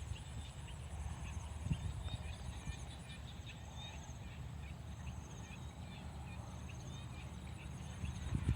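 Dusk chorus in a rice paddy: small frogs and insects calling, with many short repeated chirps over a steady pulsing high trill of crickets. A low rumble runs underneath, and there is a brief thump near the end.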